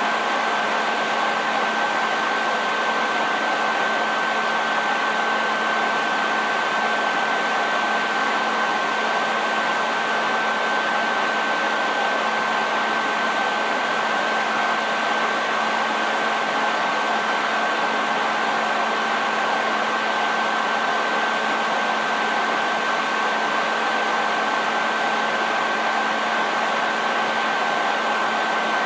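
Hair dryer running steadily: an even airflow hiss with a constant motor whine, no change in speed.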